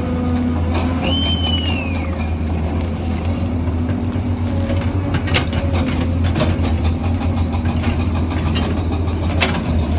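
Excavator's diesel engine running steadily, with sharp metal clanks three times: just under a second in, about five seconds in and near the end. A brief squeal about a second in rises slightly, then falls away.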